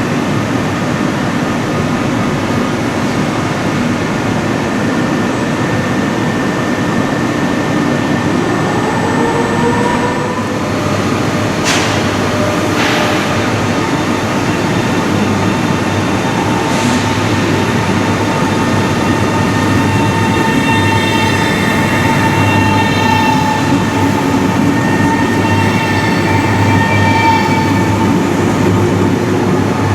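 SBB RABe 503 (ETR 610) electric tilting train running, with a continuous rumble and steady electric whining tones, one of them rising in pitch about a third of the way in. A couple of sharp clicks come just before the middle, and another comes a few seconds later.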